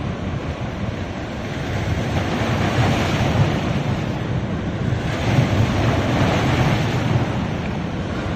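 Ocean waves breaking and washing up a beach, the surf swelling twice, about three seconds apart.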